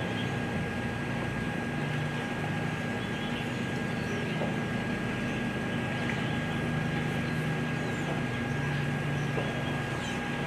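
Steady background hum and hiss with a faint constant high-pitched tone, unchanging throughout.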